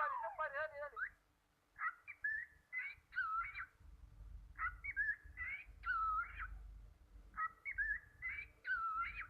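A bird whistling: a quick run of falling whistled notes, then the same short whistled phrase three times over.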